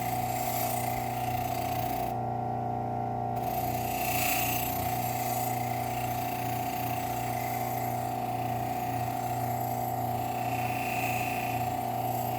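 Bench grinder with a Scotch-Brite wheel running with a steady hum and whine, while a rusty knife blade is pressed to the wheel in passes that add a hiss, louder at times; it is buffing the rust off the blade. The hiss drops out briefly about two seconds in.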